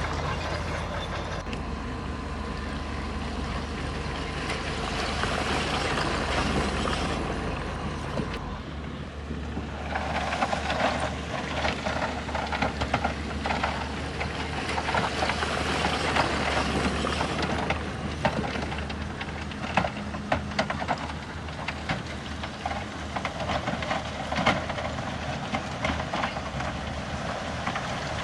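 Diesel engine of heavy earthmoving machinery running steadily. From about eight seconds in, many irregular clanks and knocks sound over it.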